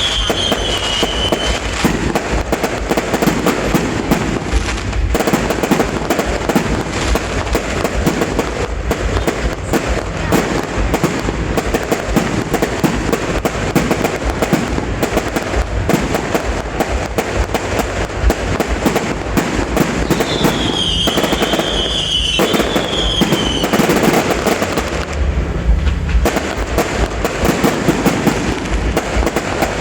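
New Year's fireworks display going off in a dense, continuous barrage of cracks and bangs. About two-thirds of the way in, a high whistle sounds for a couple of seconds, falling slightly in pitch.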